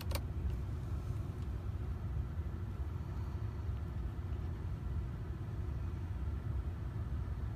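Car engine idling: a steady low rumble with no change in pace.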